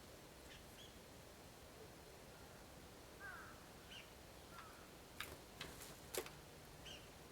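Faint, short high-pitched bird call notes every second or so, with a quick cluster of four sharp clicks about five to six seconds in.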